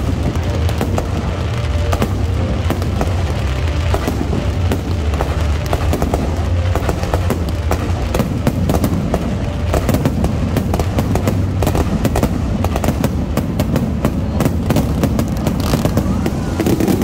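Barrage of electronically fired aerial fireworks, 3-inch shells bursting in rapid, irregular succession with many sharp cracks, growing denser about halfway through. Music runs underneath with a steady low rumble.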